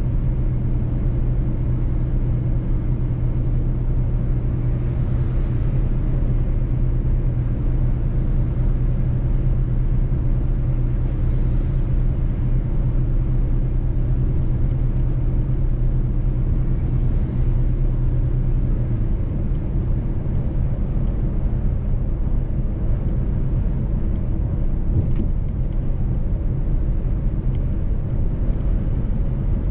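Mercedes-Benz truck's diesel engine running steadily with road noise, a low drone; its note drops a little about two-thirds of the way through.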